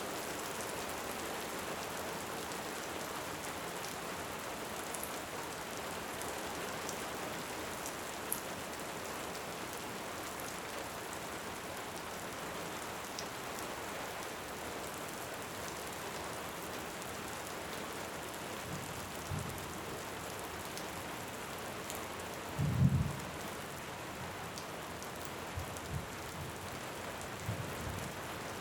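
Steady heavy rain hissing, with a few faint sharp fireplace crackles. Distant thunder rumbles low and brief several times in the second half, loudest about two-thirds of the way through.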